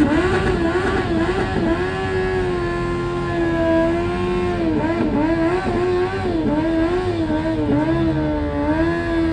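A vehicle engine revved and held at high revs, its pitch wavering up and down with repeated small dips and swells.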